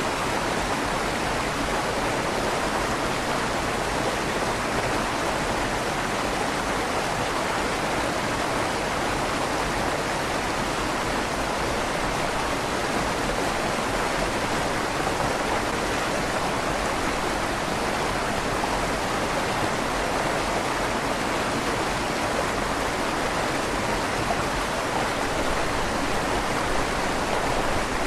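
River water flowing steadily through a stone tunnel under a bridge, a continuous even rush with a slight echo off the tunnel walls.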